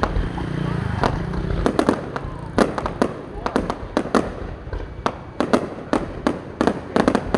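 Aerial fireworks bursting in a rapid, irregular series of sharp bangs, about three a second, over a low rumble that is heaviest in the first second or so.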